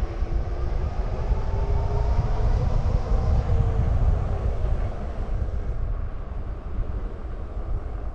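Wind buffeting the microphone during an electric-bike ride, a heavy steady rumble. Over the first half a faint whine rises slowly in pitch and fades out about four seconds in.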